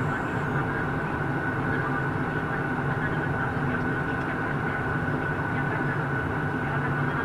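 Steady jet airliner cabin noise in flight: the engines and airflow make an even rush with a constant high whine over it.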